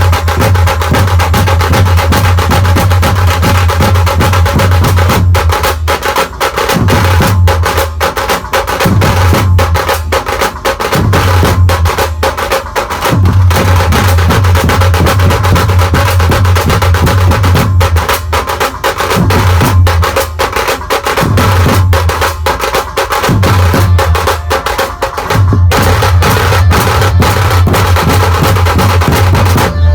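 Dhumal band playing a Chhattisgarhi folk-pop tune loudly, with dense drumming and a heavy deep bass that drops out briefly several times.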